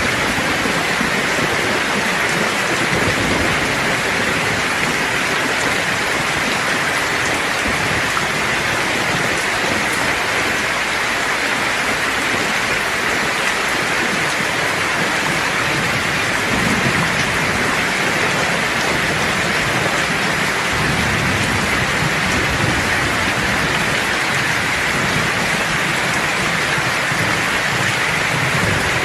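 Steady heavy rain falling, an even hiss of drops on surfaces, with low rumbles of thunder in places underneath.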